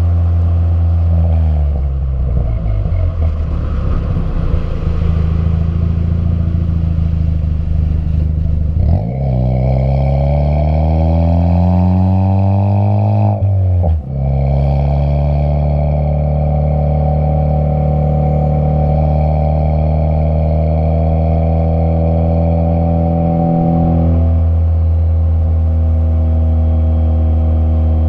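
Ford Fiesta ST's turbocharged engine through an MBRP 3-inch exhaust while driving: the pitch drops, then rises as the car accelerates, breaks briefly at a gear change about halfway through, and then holds a steady drone at cruise before easing off slightly near the end.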